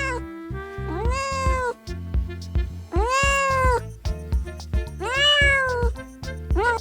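Domestic cat meowing: three drawn-out meows about two seconds apart, each about a second long, rising and then sagging in pitch, and a short meow near the end.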